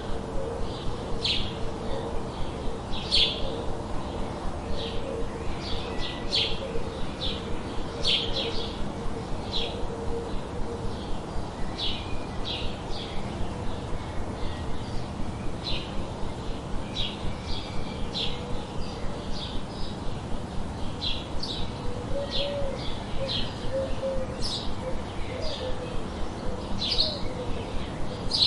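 Birds chirping: short high chirps repeating irregularly, about one or two a second, over a steady low background noise.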